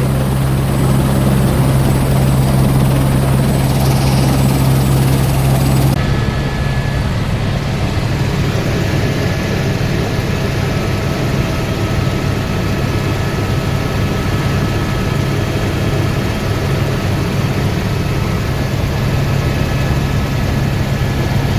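Helicopter in flight, heard from inside the cabin: a loud, steady rotor and engine drone, too loud to talk over. About six seconds in the recording cuts, and the deep humming tone gives way to an even, steady noise.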